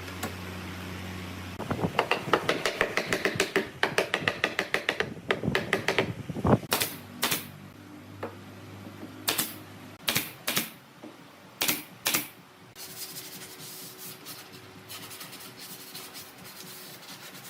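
A quick run of sharp taps for about four seconds, then single sharp knocks every half second to two seconds, over a low steady hum.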